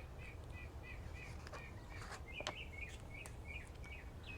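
Faint bird chirping: one short call repeated about three times a second, over a low background rumble.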